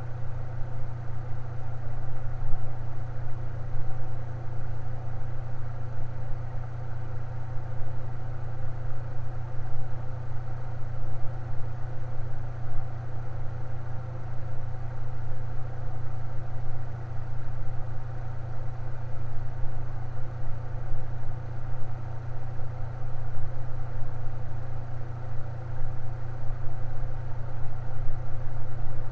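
Electric fan running steadily: a strong, even low motor hum with fainter steady whirring tones above it.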